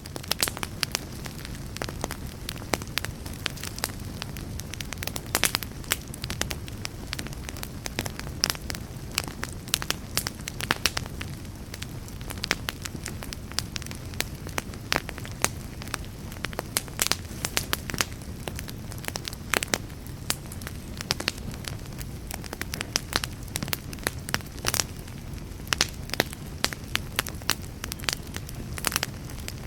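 Fire crackling: frequent sharp, irregular pops and snaps over a steady low rumble of burning.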